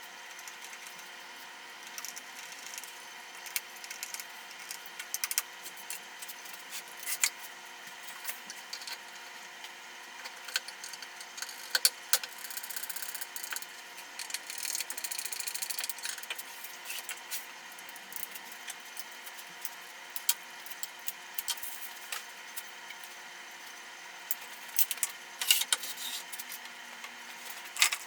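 Scattered light clicks and clinks of small metal parts and hand tools being handled during assembly, with a few seconds of denser scraping in the middle.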